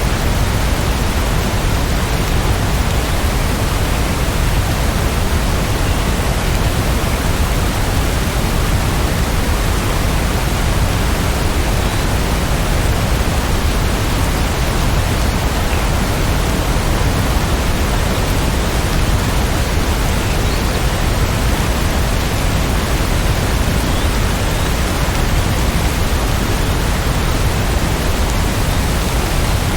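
Steady rainfall, an even, unbroken hiss with no separate drops, thunder or changes.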